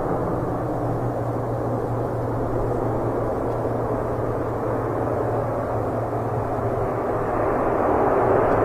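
Airbus A400M's four turboprop engines running with a steady drone and a constant low propeller hum, getting a little louder near the end.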